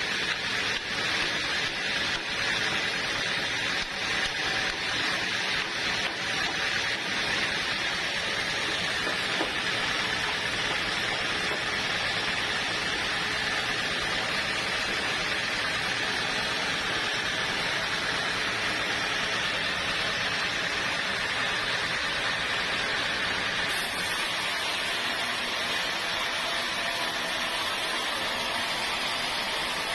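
Sawmill machinery running with a steady hissing noise.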